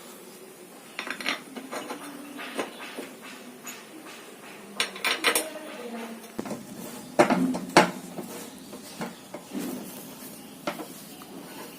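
Metal clinks and clicks of bolts being tightened on a new disc (drum flange) on a washing machine drum, with two louder knocks a little past halfway.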